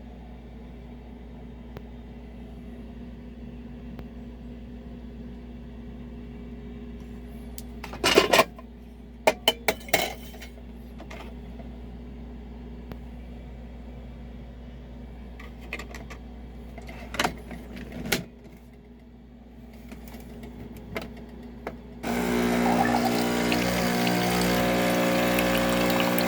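Bosch Tassimo T47 pod coffee maker: a steady low hum with a few sharp clicks and knocks about eight seconds in and again around seventeen seconds, then about 22 s in its pump starts running, loud and humming, as coffee begins pouring into the cup.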